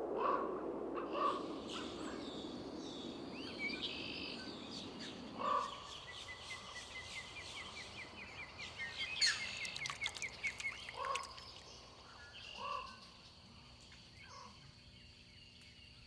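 Wild birds calling outdoors: several short, lower calls spaced a second or more apart, over high chirps and a fast trill from smaller birds. A low rushing noise fills the first five seconds and fades out.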